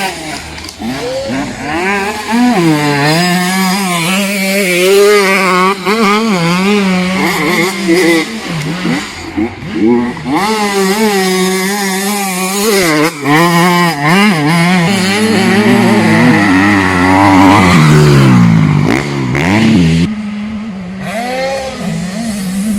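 Motocross bike engines revving hard, the pitch rising and falling quickly as the throttle opens and closes and the gears change. The note drops away about twenty seconds in, leaving a steadier drone.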